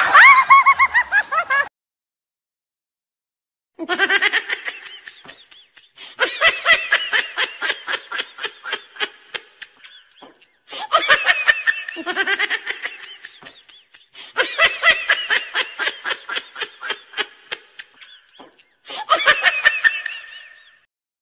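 Repeated bursts of hearty laughter, each breaking into rapid ha-ha-ha pulses that trail off, about six bouts with short gaps between them. Before them comes a brief burst of shrieking voices that cuts to about two seconds of silence.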